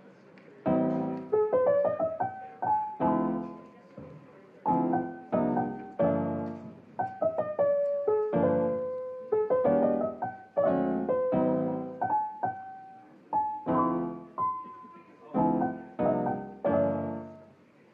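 Solo piano background music: a slow, gentle melody of struck notes and chords, each ringing and fading before the next.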